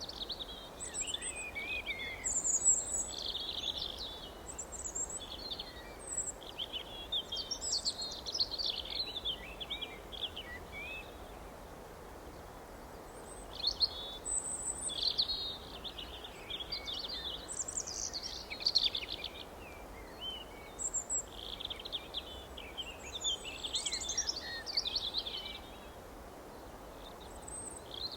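Songbirds chirping in quick, overlapping phrases, with a short lull about twelve seconds in and another near the end, over a steady faint background hiss.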